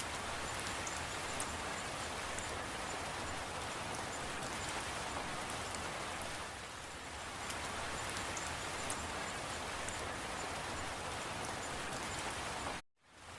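Steady rain, with individual drops ticking sharply here and there. The sound cuts out for a split second near the end.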